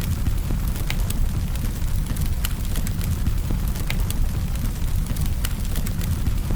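Campfire burning: a steady low rumble of flames with sharp crackles and pops of burning wood scattered through, several each second.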